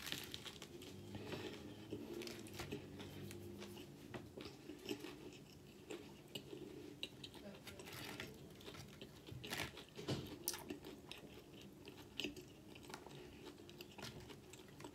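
A person biting into and chewing a sandwich layered with spicy Doritos tortilla chips. The chewing comes with soft, irregular crunches all through.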